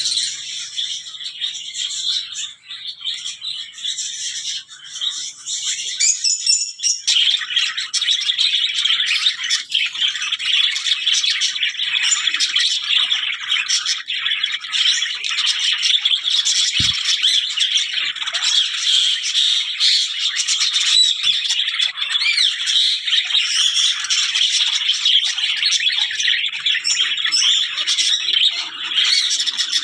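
A flock of small pet birds chattering and squawking non-stop, many calls overlapping, the chatter growing denser about a quarter of the way in. A single low thump about halfway through.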